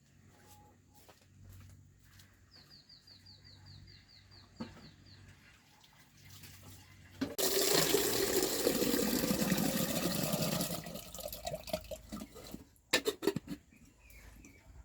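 Water running for about three and a half seconds, the loudest sound here, with scattered clicks and knocks before and after it. A few seconds before the water, a quick run of about ten short high chirps.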